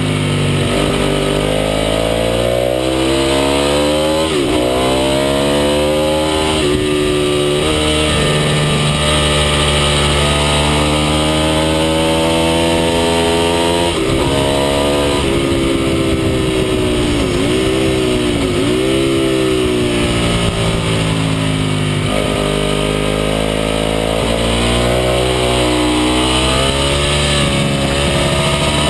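Racing sportbike engine at full race pace, heard from onboard: the revs climb and drop sharply again and again through gear changes, with quick falling blips on downshifts in the middle, over steady wind rush.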